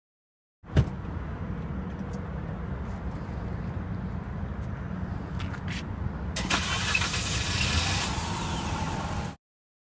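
Mazda RX-8's rebuilt rotary engine cranking on its starter, a steady low churning that begins with a clunk. About six and a half seconds in a louder hiss joins, and the sound cuts off suddenly. The engine has low compression.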